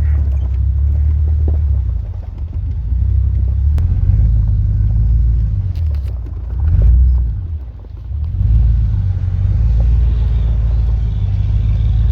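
A motor vehicle's engine running, a loud low rumble that swells about seven seconds in, dips briefly and then picks up again.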